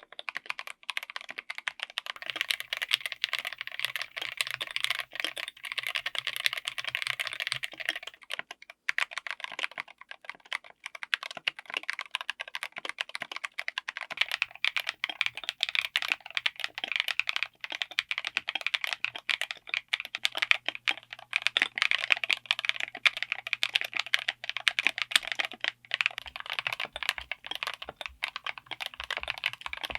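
Fast, continuous typing on a full mechanical keyboard fitted with linear switches, a dense run of keystroke clacks, with a brief pause about nine seconds in before the typing resumes.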